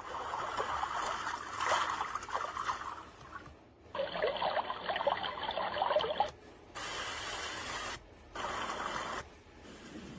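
Sound machine switching between its sounds: a few seconds of uneven rushing noise, a second stretch of it, then short blocks of steady, even hiss that each switch on and off abruptly.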